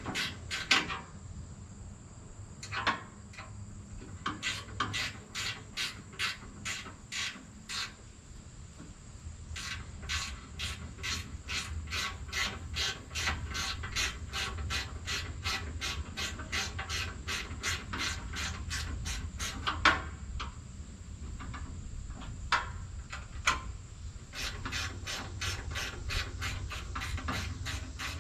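Rapid, regular mechanical clicking, about four clicks a second with a few short pauses, over a low steady hum.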